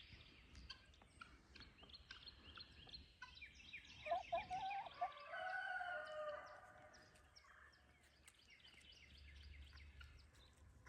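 A rooster crowing once, about four seconds in, against a dawn chorus of songbirds chirping throughout.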